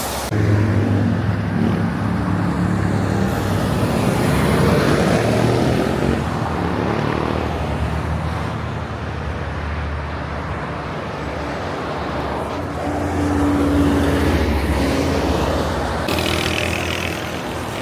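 Heavy diesel truck engine running in traffic, with steady road noise; the engine note shifts several times.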